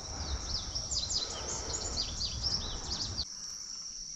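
A songbird singing a quick run of short, sweeping whistled notes over a steady high insect drone, with a low rushing noise underneath that cuts off suddenly about three seconds in.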